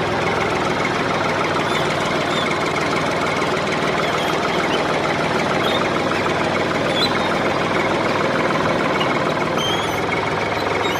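Small motor of a DIY model tractor running steadily, with a dense, fast, even rattle.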